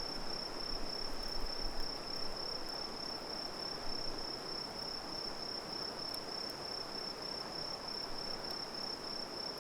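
Insects singing: one steady, unbroken high trill that never pauses, over an even rushing hiss. A few faint crackles from the campfire come through in the second half.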